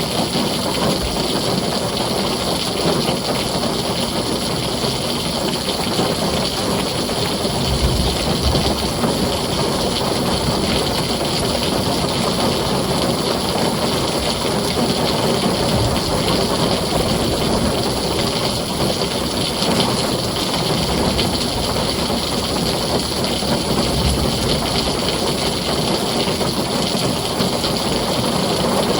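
Heavy rain falling steadily on a tin roof, a dense, even hiss and patter that doesn't let up.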